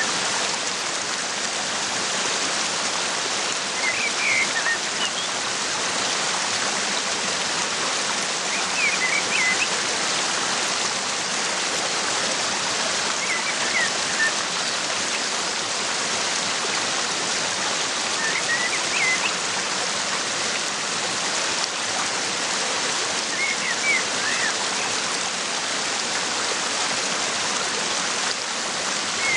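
Steady rushing of a waterfall, with short clusters of bird chirps recurring about every five seconds over it.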